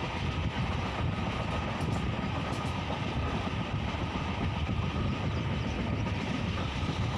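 Moving passenger train heard from inside a coach: a steady rumble of wheels on the rails with a rushing air noise.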